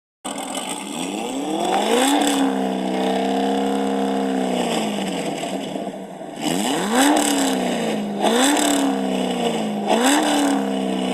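A car engine being revved. It climbs and holds high for a few seconds, then drops back, then is blipped four times in quick succession, each rev rising sharply and falling away.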